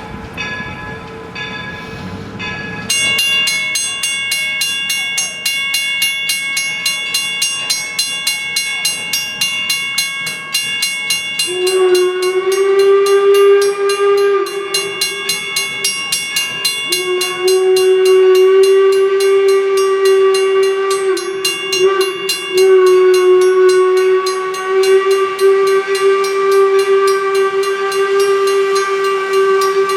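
Northern Central No. 17, a 4-4-0 steam locomotive, passing with a bell ringing at an even pace; about twelve seconds in its steam whistle starts sounding long blasts with short breaks.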